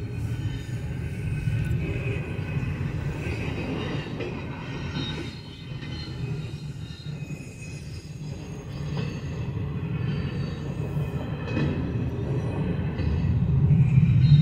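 Double-stack intermodal freight cars rolling steadily through a grade crossing: a continuous low rumble with clatter from the wheels and some faint high wheel squeal. The rumble dips briefly in the middle and swells again near the end.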